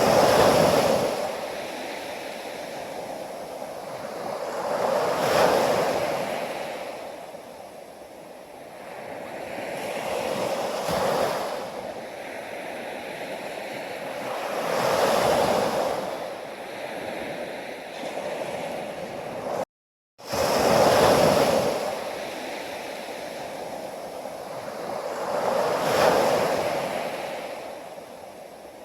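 Sea waves washing onto a beach, surging and falling back roughly every five seconds. The sound drops out completely for a split second about two-thirds of the way through.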